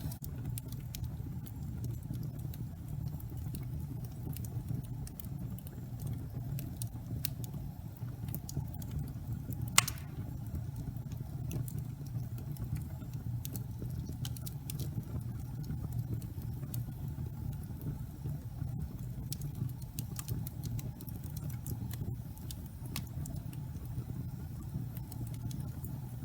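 Fire burning in a fireplace: a steady low rumble with scattered small crackles and one sharp, loud pop about ten seconds in.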